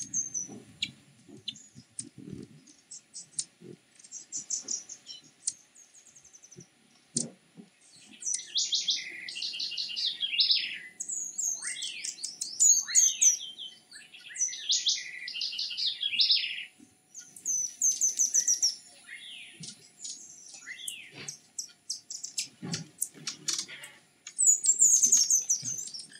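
Birds chirping: scattered high chirps at first, then from about eight seconds repeated bursts of fast, high, sliding notes, each burst lasting about a second.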